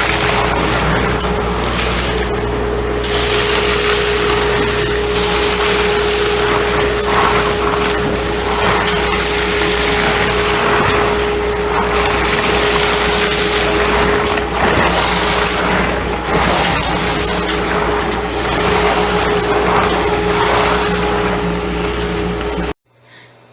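Milling machine running a leveling bit across the tops of beams to surface them flat. It makes a loud, steady machining noise with a constant whine, and it cuts off abruptly near the end.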